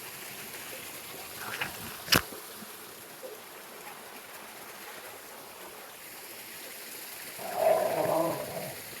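Mountain creek water running steadily. A single sharp click comes about two seconds in, and a short, muffled vocal sound rises near the end.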